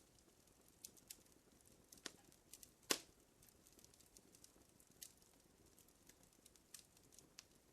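Fire crackling: quiet, irregular sharp pops and snaps, the loudest about three seconds in, over a faint hiss.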